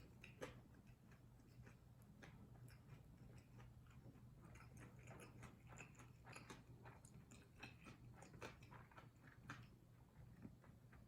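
Faint, close-miked chewing of kimchi fried rice: a string of small wet mouth clicks and smacks, busiest in the middle.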